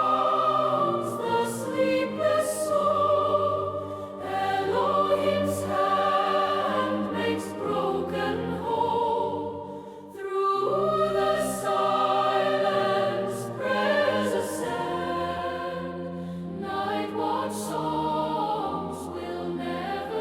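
Music: a choir singing long, held notes over a sustained accompaniment, with a short break about halfway through.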